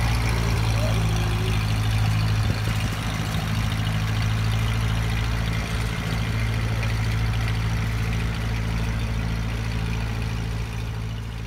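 Tractor engine idling steadily, dropping slightly in level near the end.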